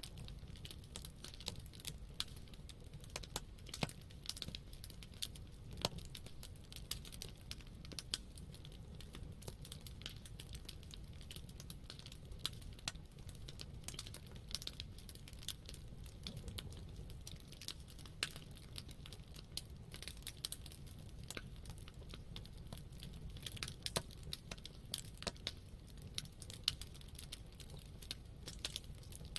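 Wood campfire burning with irregular crackles and pops over a low, steady rumble of flame.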